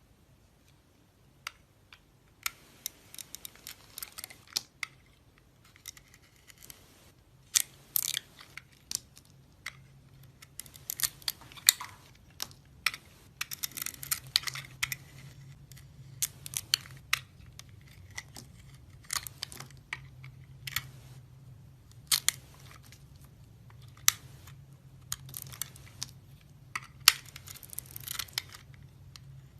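Blade cutting and scraping into a bar of soap: an irregular run of crisp scrapes and clicks, over a faint low hum.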